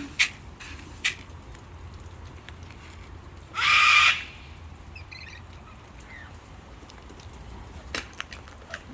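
A sulphur-crested cockatoo gives one loud, raspy screech about three and a half seconds in, with a few faint chirps after it. Several sharp clicks come near the start and about eight seconds in.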